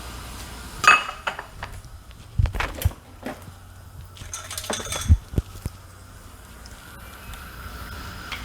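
Metal pot and utensils clinking and knocking as dried bamboo shoots are put into a pot of boiling water: a run of sharp strikes, the loudest about a second in with a short ring and another about five seconds in.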